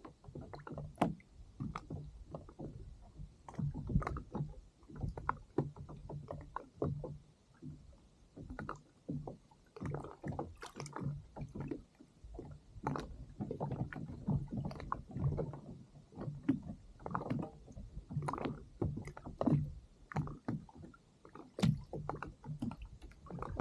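Small waves slapping and gurgling against the hull of a drifting kayak, in many irregular splashes and knocks over a low rumble.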